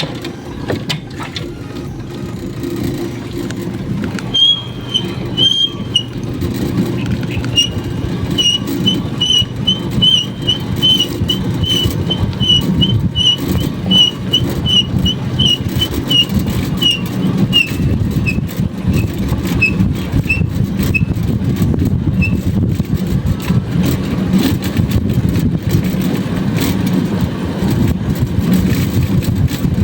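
A running motor vehicle engine makes a steady low rumble that slowly grows louder. Over it, a bird gives a long series of short high chirps, about two a second, which space out and drop a little in pitch before stopping about two-thirds of the way through.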